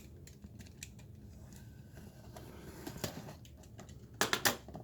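A cardboard product box being opened by hand: small scrapes and clicks of the packaging, then a louder burst of crackling and rustling about four seconds in.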